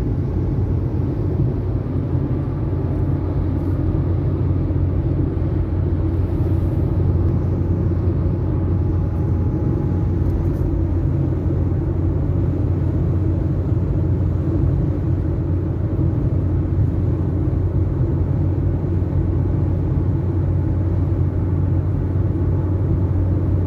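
Steady low drone of a vehicle driving along, engine and road noise heard from inside, with an even hum near its bottom.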